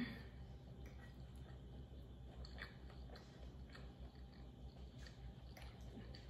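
Faint close-up chewing of a mouthful of creamy pasta, with a few soft scattered clicks as a fork works in the pasta on the plate, over a low steady room hum.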